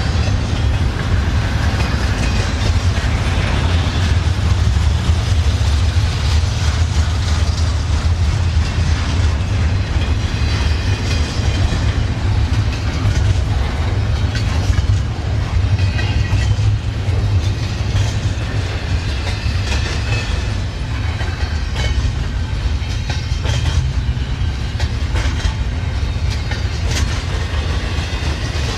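Train cars rolling past, a steady heavy rumble with wheels clicking and ticking over the rail joints.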